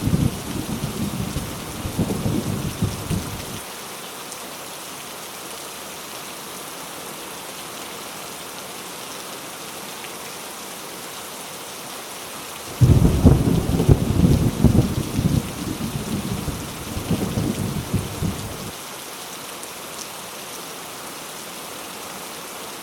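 Steady heavy rain with thunder. A rumble dies away in the first few seconds, then a sudden loud thunderclap about thirteen seconds in rolls on for about six seconds.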